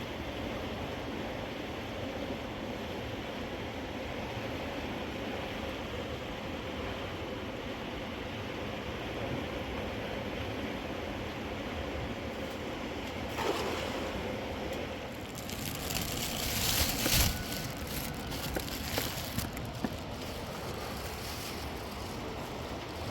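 Steady rush of flowing river water, with a cluster of sharp rustles and clicks about two-thirds of the way in.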